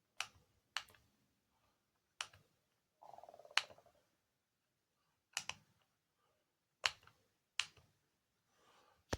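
Sharp plastic clicks from handling a hand-held Bosch KTS 300 scan tool, about eight of them at uneven intervals, with a short buzzing rattle just before the loudest click in the middle.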